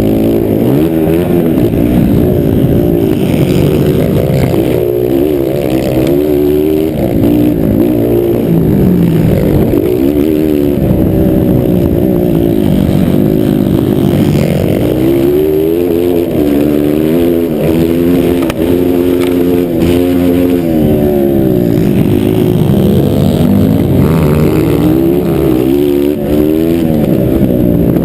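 Motocross bikes' engines revving hard on the track, the pitch climbing and dropping again and again as the riders work the throttle through the gears.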